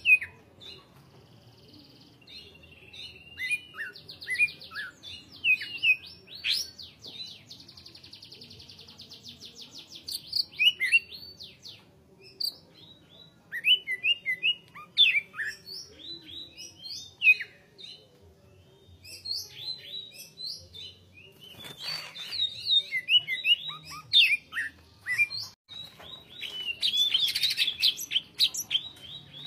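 Cucak hijau (green leafbird) singing continuously: rapid, varied chirps, whistles and buzzy trills in dense phrases with short pauses between them, busiest near the end.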